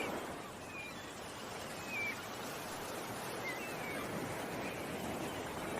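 Ocean waves washing steadily on the shore, with small birds giving short, high chirps a few times.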